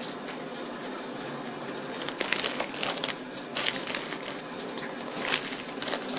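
Plastic candy bag crinkling in the hands, irregular crackly rustles.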